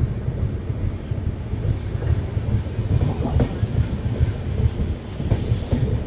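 Passenger express train running on the rails, heard from on board: a steady low rumble from the coach, with occasional faint clicks of the wheels. A faint high hiss comes in near the end.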